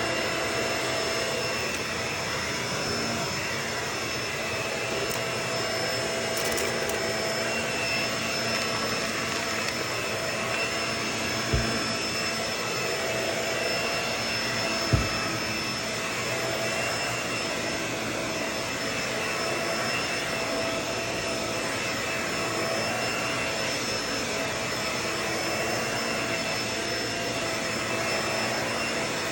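Vacuum cleaner running steadily, its motor holding a constant whine over the airflow noise, with two brief low thumps about 12 and 15 seconds in.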